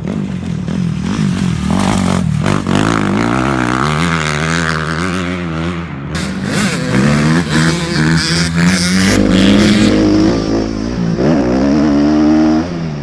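Dirt bike engine revving up and down as it is ridden, its pitch climbing and dropping several times, with some clattering noise.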